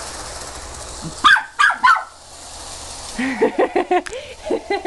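Puppy barking: three sharp barks about a second in, then a quicker run of yaps near the end, over the steady running noise of a toy train.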